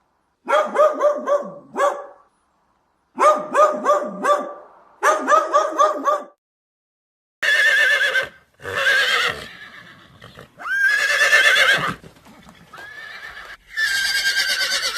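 Elephant trumpeting: three bursts of quick, stuttering calls in the first half, then four longer, higher-pitched trumpet blasts separated by short gaps.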